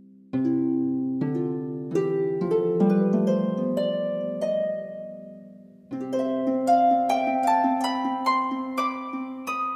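Background music: a harp plucking runs of notes over a held low chord, one phrase starting just after the beginning and a second about six seconds in.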